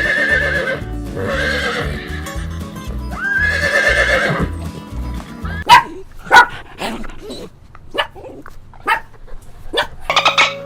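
An animal calling three times over background music, each call long and wavering in pitch, followed by a run of short sharp clicks and knocks.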